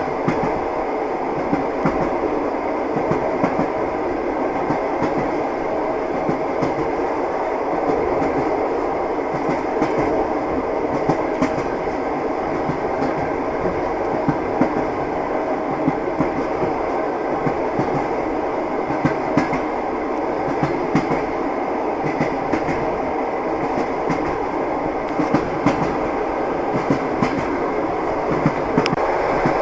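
Train running at speed: the wheels clatter over the rails with a steady rumble and scattered irregular clicks.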